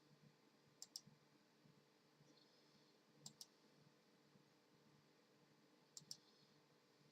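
Pairs of sharp clicks, two in quick succession, repeating about every two and a half seconds over near silence.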